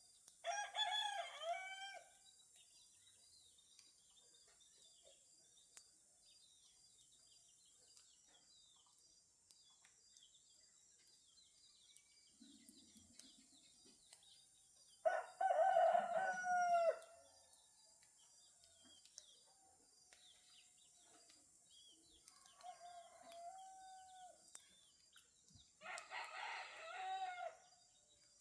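Roosters crowing three times, each crow about one and a half to two seconds long: near the start, about halfway through (the loudest), and near the end. Faint chirping of small birds and a steady high hiss run underneath.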